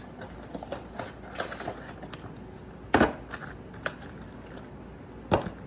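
A model train boxcar being taken out of its box and packaging: scattered small clicks and crinkles, with two sharp knocks, one about three seconds in and one near the end.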